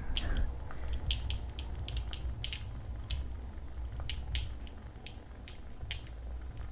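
Wooden-wick candle crackling: irregular sharp pops and ticks, a few a second, over a low steady hum.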